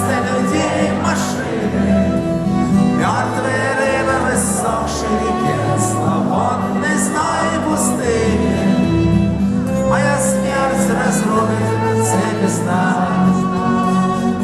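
A rock band playing live, with full band music running continuously.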